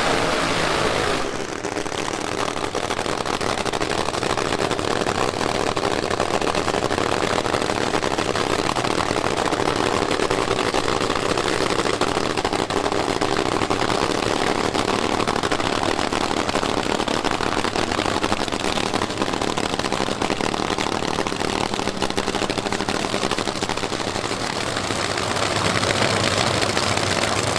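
A vehicle engine idling steadily, a little louder near the end.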